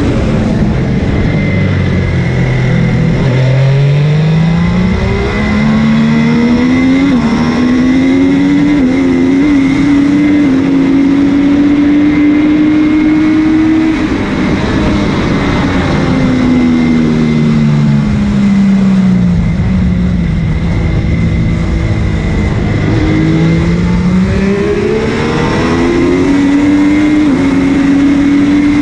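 MV Agusta F3's three-cylinder engine at racing pace. It revs up through several gear changes, drops in pitch through downshifts under braking about halfway through, then pulls up through the gears again, with steady wind rush.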